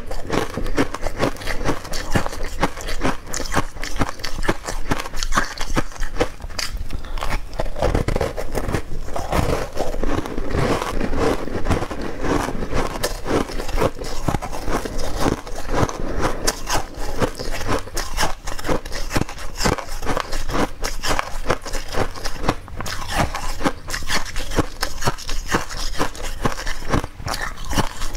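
Close-miked chewing and mouth sounds of a person eating soft, powder-dusted sweet cakes: a continuous run of small sticky clicks and smacks.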